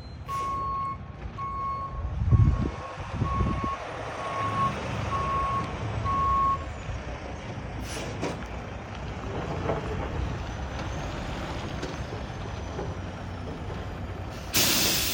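Heavy tow truck's reversing alarm beeping about once a second for several seconds over the steady rumble of its engine. The engine swells louder about two seconds in, and a short, loud hiss comes near the end.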